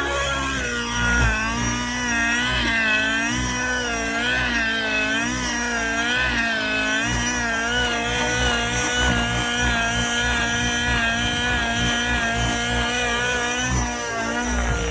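Tron Nitron 90 nitro radio-controlled helicopter in flight, its glow engine and 700-size rotor running steadily. The pitch wavers up and down about once a second as the load changes through aerobatic manoeuvres.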